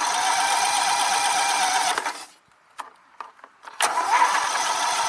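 Electric starter cranking a Kohler Command CV22 V-twin yard-tractor engine in two tries of about two and a half seconds each, with an even fast chugging, and the engine never catches. The owner finds no ignition and suspects bad gas or fouled plugs.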